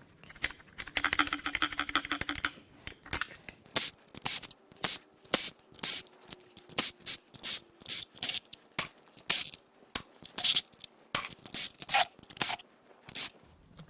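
Tools working on the intake of a 5.7 L Vortec V8: a short buzz about a second in, then a long run of sharp, irregular metallic clicks and clinks as parts are worked loose.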